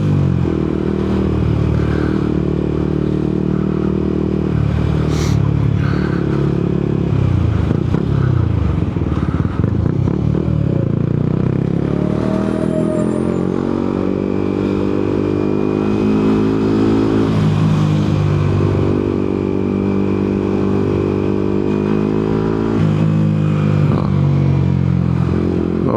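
Yamaha MT-125's single-cylinder 125 cc four-stroke engine under way, its revs rising and falling as the bike rides through the gears, with a sharp click about five seconds in.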